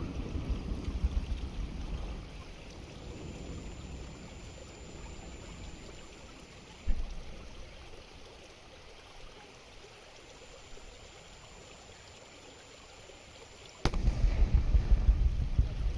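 One deep boom of a firework shell bursting at a distance, about seven seconds in, dying away over a second or two. Wind rumble on the microphone comes and goes around it, cutting back in suddenly near the end.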